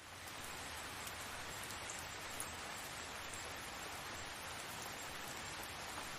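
Steady rain falling, an even hiss with scattered light drop ticks, fading in at the very start.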